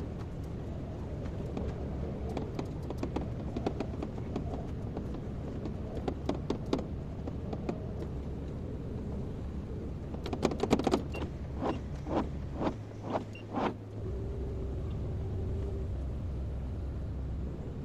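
Kobelco excavator's diesel engine running steadily, with sharp metallic clanks and knocks from the machine at work. The knocks are scattered early on and come thick and loud about ten to fourteen seconds in.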